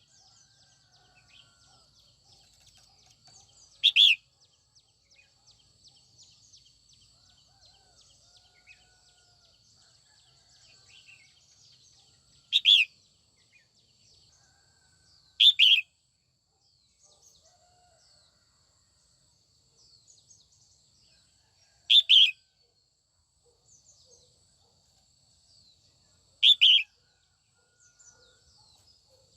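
Female red-whiskered bulbul calling: five short, loud calls spaced several seconds apart, with faint chirping between them over a faint steady high tone.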